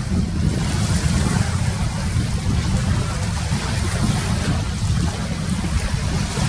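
Wind buffeting the microphone in a steady rumble, over an even hiss of sea waves washing.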